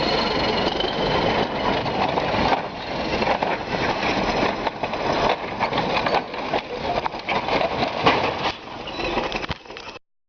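Loud mechanical rumble, busy with clanks and knocks, that cuts off abruptly near the end.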